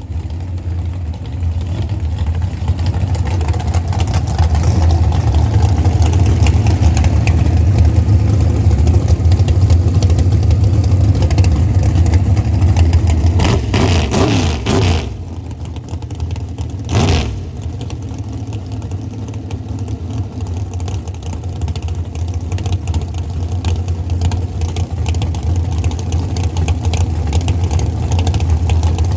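Drag race car engines running loud, with a strong low rumble. The level drops about halfway through, followed soon after by a short loud burst.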